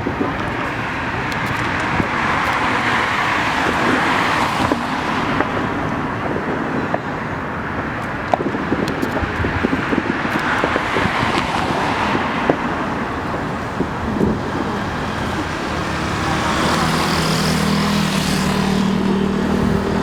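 Distant New Year's fireworks display: rolling booms and scattered crackles over steady outdoor background noise. A steady low hum comes in near the end.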